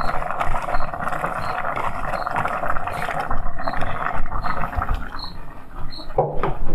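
Nopales freshly added to dried peas frying in hot oil, sizzling in the pot with a steady frying hiss.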